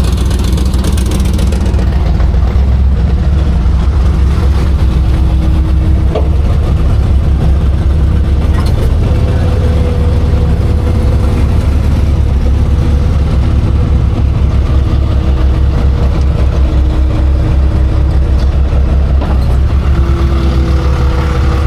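Big-block 454 V8 of a 1965 Chevy C10 pro street truck running steadily at idle, loud and low. The exhaust note has a leak that is taken for a broken header.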